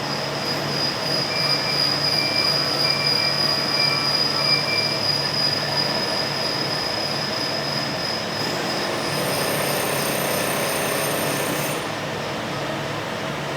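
Automated machining equipment running with a steady high-pitched whine and a low hum. A series of short, evenly spaced beeps sounds in the first few seconds, and a higher whine joins from about nine seconds in until near the end.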